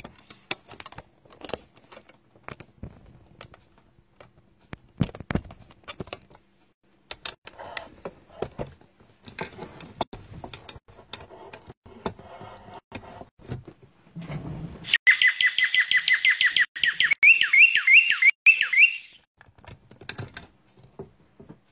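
Scattered clicks and taps of things being handled on a desk, then a bird chirping loudly and rapidly, several chirps a second, for about four seconds; its later chirps are hooked in pitch.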